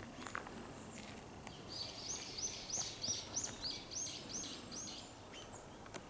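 A songbird singing a quick run of about ten repeated high notes, roughly three a second, for about three seconds.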